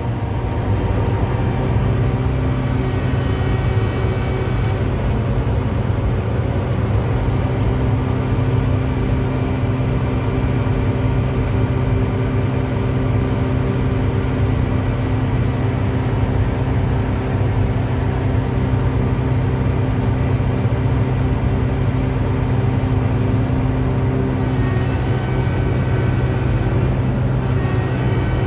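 Komatsu PC1250-8 excavator's diesel engine and hydraulic pumps running steadily, with a constant low hum. An added steady tone comes in about eight seconds in and drops out a few seconds before the end. The pumps are under test for an abnormal noise, which the mechanic suspects comes from too little oil reaching the pump suction.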